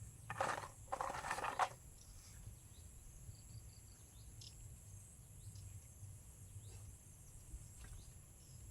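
Insects, crickets or similar, keeping up a steady high-pitched trill over a low background rumble. There are two short rustling noises in the first two seconds.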